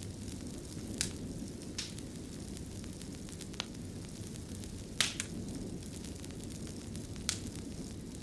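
Wood fire burning in a fireplace: a steady low rumble of flames broken by sharp crackles and pops every second or two, the loudest pair about five seconds in.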